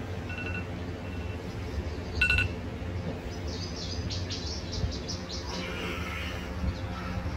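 Birds chirping in quick high twitters about halfway through, over a steady low hum. A few short electronic beeps come in the first couple of seconds, the loudest just past two seconds in.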